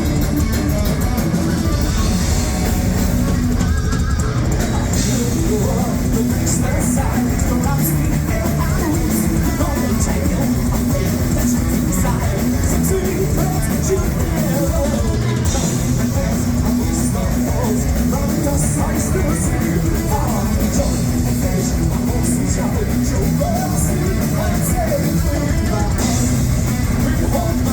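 Heavy metal band playing live: distorted electric guitars and a drum kit, with sung vocals over them.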